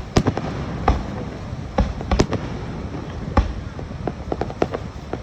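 Fireworks bursting overhead: a string of sharp bangs at irregular intervals, several a second at times, over a steady rumble of earlier bursts.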